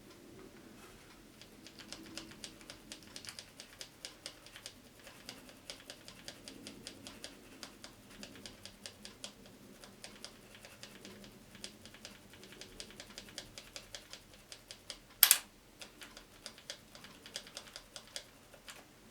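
Record button and its mode-change slide switch in an Aiwa TPR-910 cassette boombox being worked by hand, clicking irregularly a few times a second, to work in sprayed contact cleaner. The switch felt sluggish, and the owner suspects crud in it is why the radio will not play. One much louder sharp click comes about fifteen seconds in.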